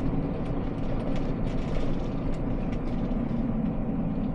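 Steady low rumble of a camper van's engine and tyres while driving, with a few faint scattered clicks.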